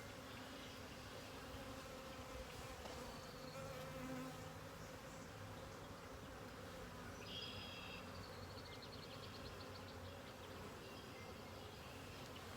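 Honeybees buzzing around an open hive: a faint, steady hum of many bees, with a brief high chirp about seven seconds in.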